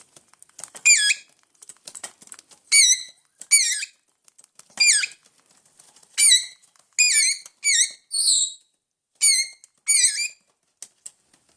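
Hungry parrots calling: about ten short, squeaky wavering calls at irregular intervals, with one harsher, rougher call a little past the middle and faint clicks between the calls.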